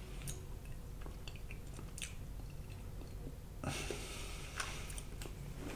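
Close-miked chewing of deep-fried battered sausage: faint wet mouth clicks and soft chewing, with a brief louder burst of chewing about two-thirds of the way in.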